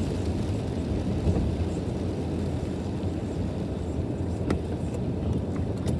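Steady low rumble of a car driving, heard from inside the cabin, with two faint clicks in the second half.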